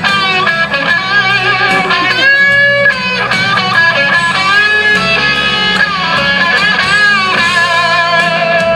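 Guitar-led country music intro: a lead guitar line with bent, wavering notes over a steady strummed accompaniment.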